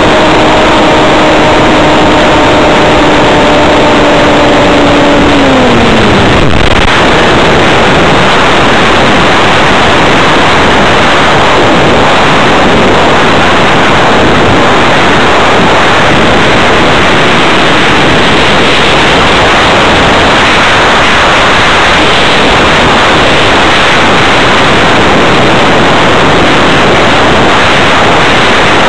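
Electric motor and propeller of an RC hotliner model plane running with a steady whine, whose note drops and dies out about six seconds in as the motor is throttled off; after that only loud wind rush from the airflow over the onboard camera as the plane glides.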